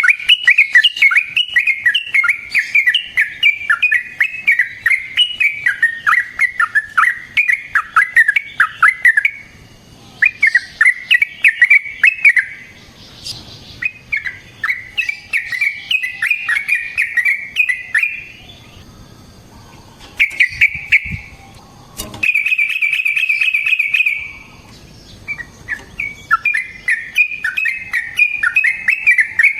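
Yellow-vented bulbul (trucukan) singing long runs of rapid, bubbly chattering notes, broken by a few short pauses. About two thirds of the way in comes a short buzzy trill.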